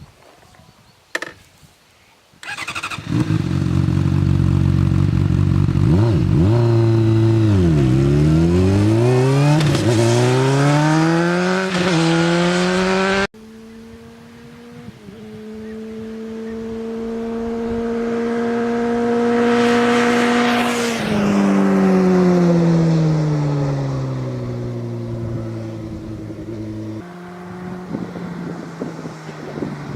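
2009 Honda CBR600RR's inline-four engine through a Dominator slip-on exhaust. It starts up loud a few seconds in and revs hard, its pitch dropping and climbing again as it changes gear. After a sudden cut, a second pass builds in loudness, drops in pitch as it goes by, and fades away.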